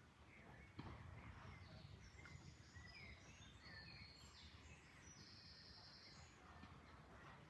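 Faint birdsong, with several short chirps and a buzzy trill about halfway through, over a low, steady rush of flowing water.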